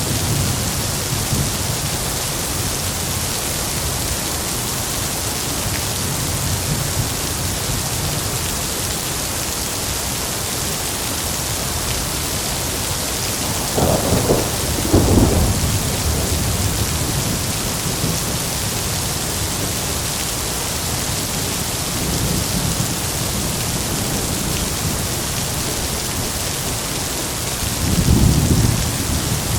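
Heavy rain falling steadily, with low rumbles of thunder rolling in twice: once about halfway through and again near the end.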